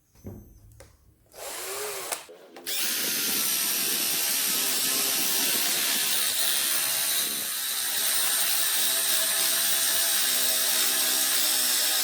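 Electric drill motor: a brief spin-up about a second and a half in, then it runs steadily at full speed for most of the rest with an even whine.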